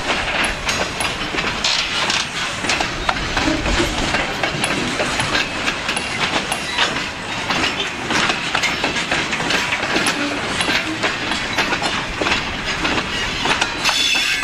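Freight train cars rolling past at close range: steel wheels running on the rails in a steady rumble, with many sharp clacks and clanks as the wheels cross the rail joints.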